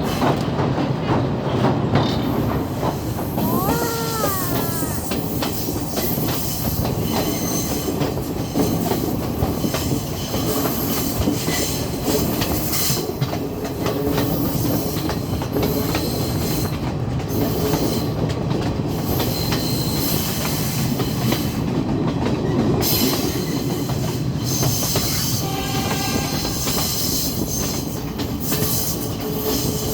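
Passenger train running along the track, a steady rumble of wheels on rails with clickety-clack, and brief high-pitched squeals a few seconds in and again near the end.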